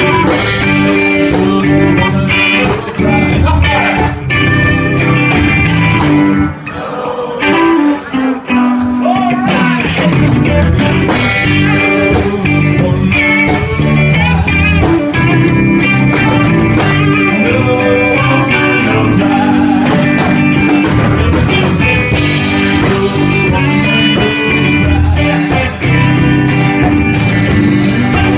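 Guitar-led band music playing at a steady full level. It thins out briefly about seven seconds in, then carries on.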